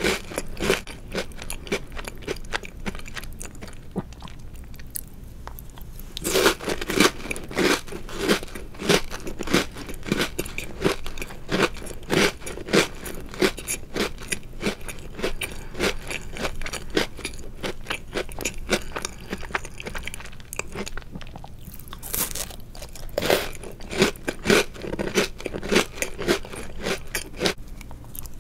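Close-miked chewing and crunching of chocolate-covered Oreo cookies, with many quick crisp crackles and a few louder bites along the way.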